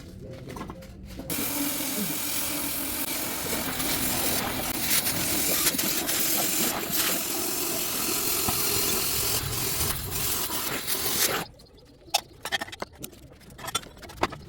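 A power tool runs with a steady, harsh hiss-like noise for about ten seconds, starting and stopping abruptly. Scattered knocks and clicks come before and after it.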